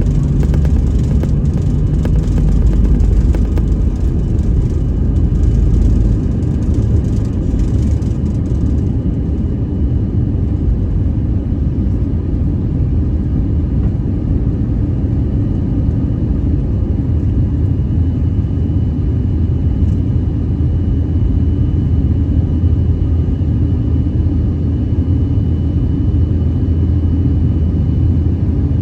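Inside the cabin of an Airbus A319-115: a loud, steady rumble of the CFM56 jet engines and rushing air. The deepest rumble eases about six seconds in, and a faint high whine comes in later.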